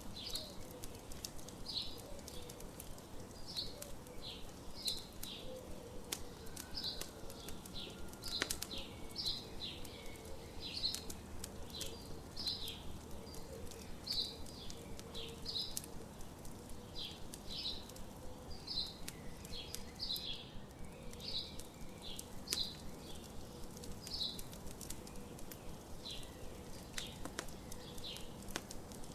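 Birds chirping in quick short high notes, roughly two a second, over a campfire crackling with scattered sharp pops.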